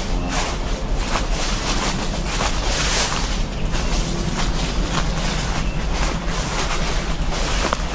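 Wind rumbling on a chest-mounted action-camera microphone, with footsteps crunching about twice a second at walking pace.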